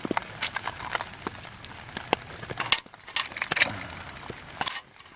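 Sharp clicks and scrapes of repeated strikes at lighting a small backpacking stove, with several louder strikes in the second half.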